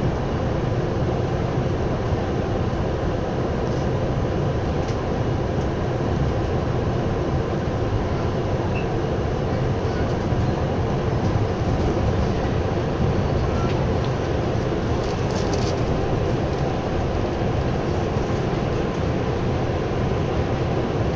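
Tokyu Oimachi Line express train running at speed, heard from inside the carriage: a steady rumble of the moving train.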